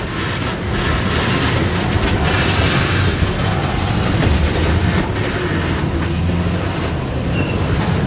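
Diesel switching locomotive, an EMD GP38-2, running under load as it moves a cut of freight cars, with the rumble of cars rolling on the rails. It comes during a switching move, about one car length before the cut is dropped.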